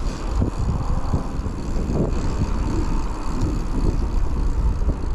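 Wind buffeting a chest-mounted action camera's microphone over the rumble and irregular knocks of a Raleigh Trailblazer hardtail mountain bike riding an off-road trail.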